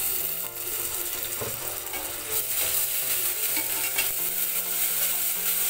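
Ginger-garlic paste hitting hot oil and ghee with lightly browned onions in a pot, sizzling as it is stirred with a spoon. The sizzle comes in suddenly and grows louder about two seconds in.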